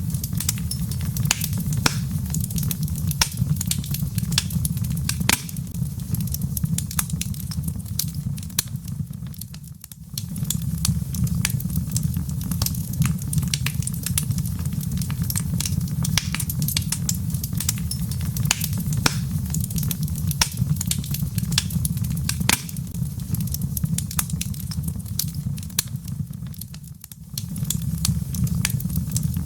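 Wood log fire crackling, with many sharp pops and snaps over a steady low rumble of the flames. The sound dips and fades back in twice, about ten seconds in and near the end.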